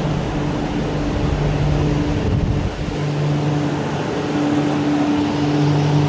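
MTR Island Line Q-Train metro train running with a steady electrical hum, two low tones coming and going; a low rumble drops away about three seconds in.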